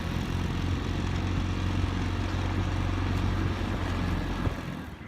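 Fishing boat's motor running at a steady speed, then dropping away about four and a half seconds in.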